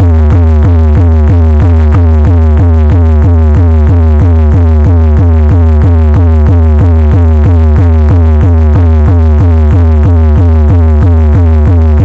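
Very loud electronic dance music with heavy bass, played through a large DJ sound system: a fast, steady beat of about four strokes a second, each with a falling synth note.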